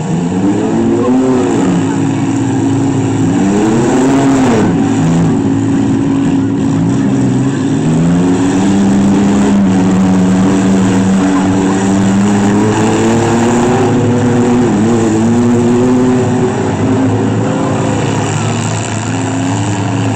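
Engines of demolition derby minivans, trucks and an SUV revving up and down as they drive and ram one another, the pitch repeatedly climbing and falling.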